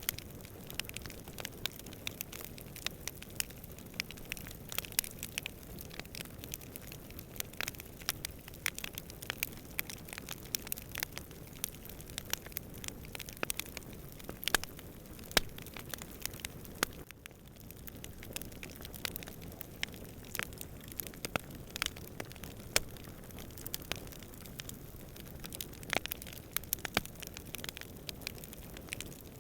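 Wood campfire crackling, with sharp snaps and pops at irregular intervals over a steady low rush of distant wind. The background briefly drops away about seventeen seconds in.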